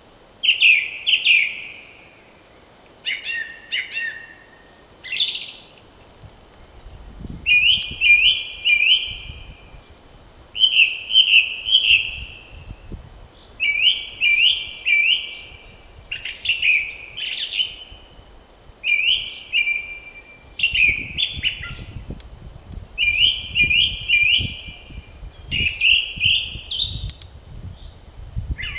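A songbird singing the same short phrase over and over, three or four quick down-slurred whistled notes, roughly every two to three seconds, with other brief higher calls between the phrases. A low rumble of wind comes and goes under the song, strongest in the second half.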